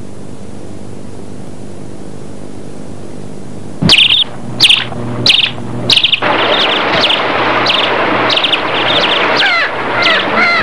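Steady tape hiss with a low hum. About four seconds in, bird chirps start in short loud bursts roughly every two-thirds of a second; from about six seconds a steady rushing noise joins them, and near the end whistled bird calls glide up and down.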